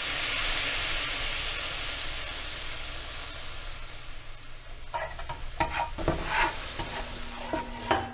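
Sizzle of food frying in hot oil. It starts suddenly at full strength and slowly dies away, followed by a few short crackles and clicks over the last few seconds.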